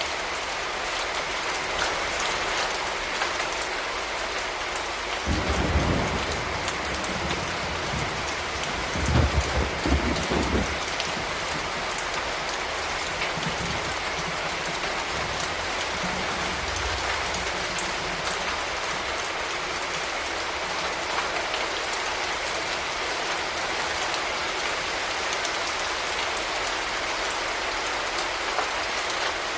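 Steady rain falling and spattering on hard surfaces, with two brief low rumbles about five and nine seconds in.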